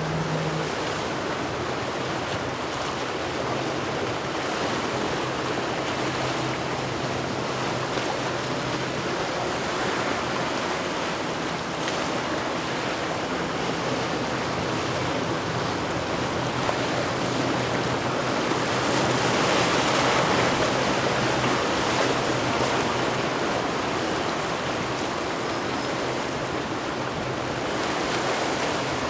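Steady rushing of water and wind on the open water, swelling a little about two-thirds of the way in, with a faint low engine hum from a boat in the first half.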